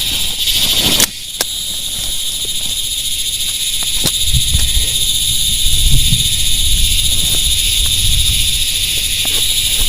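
Steady chorus of night insects, a cricket-like trilling in several high pitches, over a low rumble, with a few sharp ticks. The sound cuts abruptly about a second in and then carries on.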